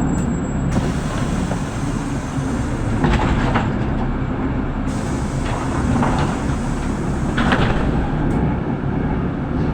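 Inside a city bus on the move: a steady low engine and road rumble, with brief rattles of the body and fittings about three seconds in and again about six and seven and a half seconds in.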